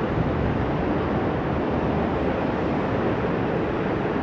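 Steady rumble of jet engine noise at an airport, mixed with wind.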